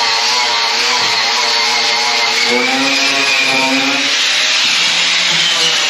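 Handheld power grinder running steadily and grinding down old Bondo body filler and rusty sheet metal, its motor pitch wavering as it is pressed into the work.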